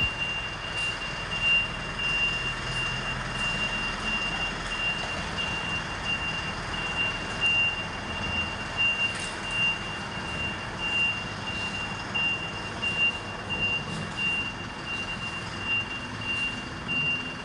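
A vehicle's reversing alarm beeping, a high tone repeating evenly throughout, over the running of a truck engine and traffic noise.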